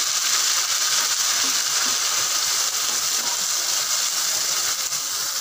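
Wet ginger, garlic, onion and cardamom paste sizzling in hot oil in a kadai while it is stirred with a spatula: a loud, steady hiss.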